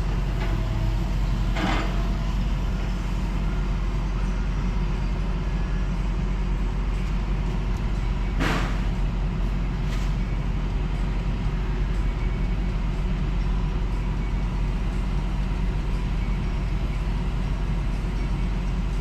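Truck running down the road, a steady low engine and road rumble, with two short hisses about two seconds and eight and a half seconds in.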